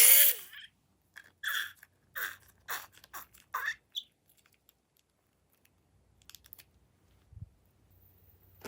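Slime being squeezed and worked by hand. A loud wet squish right at the start, then about five short squelches in quick succession, then quiet handling.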